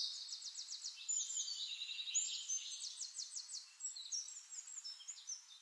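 Small birds chirping and trilling, fairly faint and high-pitched: quick runs of repeated notes mixed with short sliding calls.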